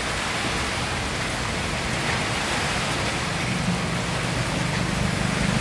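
Heavy typhoon rain and wind making a steady, loud rushing noise. About halfway through, a low engine hum joins in and grows louder.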